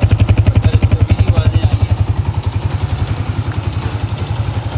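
2003 Honda CG125's single-cylinder four-stroke engine idling with a steady, even beat of about ten pulses a second, a little softer after about two seconds.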